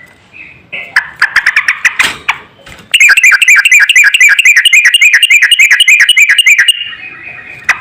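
Songbird singing: a brief rapid trill, then a long run of fast, evenly repeated chattering notes, about eight a second, that stops abruptly.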